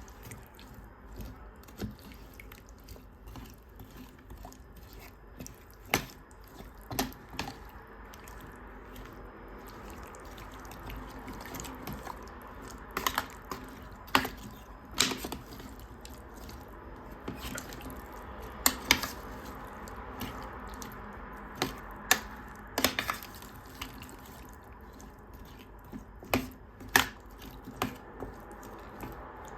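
Kitchen food-preparation sounds: scattered sharp clicks and knocks of hands working food and utensils, over a steady low background noise.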